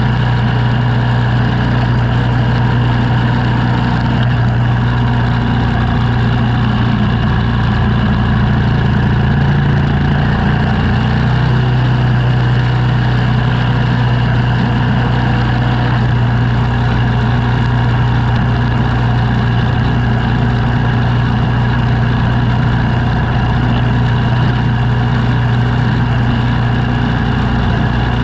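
An engine running steadily at a constant speed. About eight seconds in its pitch rises slightly for a few seconds, then settles back.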